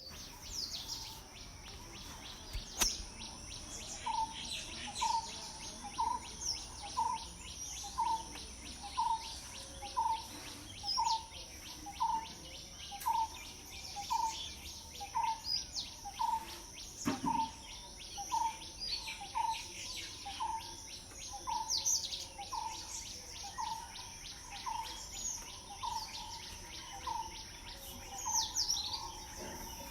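Morning birdsong over insects: one bird repeats a short low note about once a second, while other birds chirp higher up. A steady high insect drone and rapid insect trilling run underneath.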